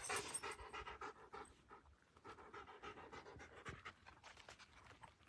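A dog panting faintly, with short quick breaths that fade after the first second or so.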